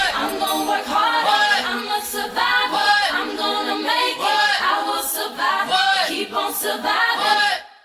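Isolated stacked female vocals from an R&B pop recording, several voices singing in harmony with no backing instruments. They drop away sharply to silence just before the end.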